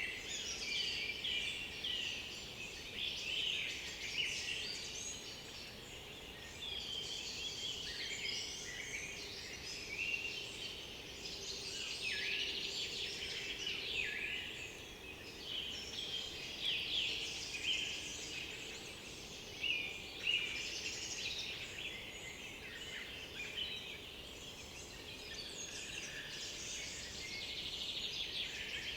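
Chorus of several woodland songbirds singing at once, with dense overlapping chirps, trills and whistled phrases that never let up.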